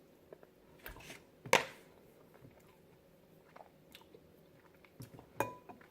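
Person eating chocolate chip cookie dough ice cream: quiet chewing and mouth sounds with a few short, sharp clicks, the loudest about a second and a half in.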